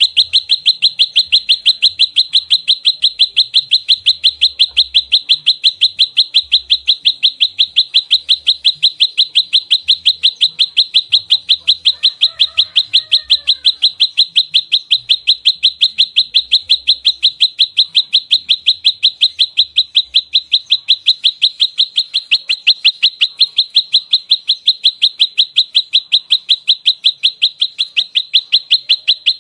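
Prenjak lumut calling in a fast, unbroken run of sharp, high chips, about five a second without a pause. This is the bird's rapid 'fighting' call, used as a lure.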